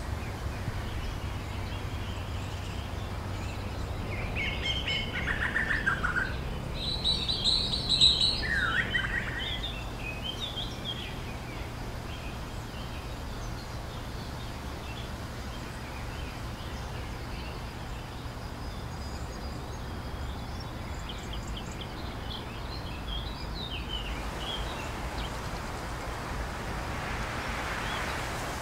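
Wild birds singing and chirping, busiest about five to ten seconds in with a few falling phrases, and a few more chirps near the end, over a steady low rumble of background noise.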